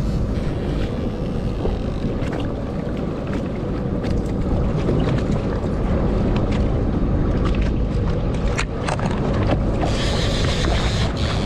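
A small fishing boat under way, its engine running steadily with wind on the microphone and water rushing past the hull. The water and wind hiss grows brighter near the end.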